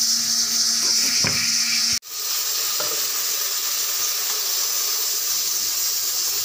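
Yogurt-and-masala gravy sizzling and bubbling in ghee in a pot over a medium flame, stirred with a spatula, while the yogurt's water cooks off. The sizzle cuts out abruptly about two seconds in and resumes at once.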